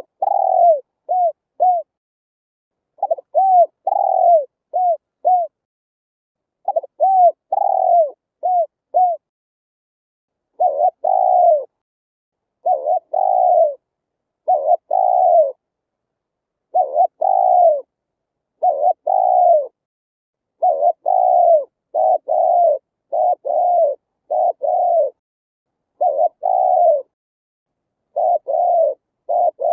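Spotted dove cooing: a repeated phrase of low coos, each note falling in pitch, with the phrases separated by short pauses. There is no background noise between the notes.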